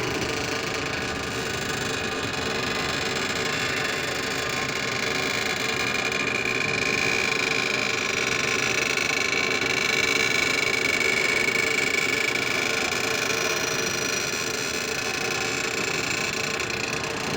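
Overhead crane running with a steady mechanical noise and a high whine that grows stronger through the middle, a sound taken as abnormal for the crane.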